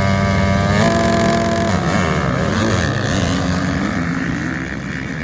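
Dirt bike engine running at high revs, its pitch changing abruptly about a second in, then growing rougher and slowly fading as the bike moves away.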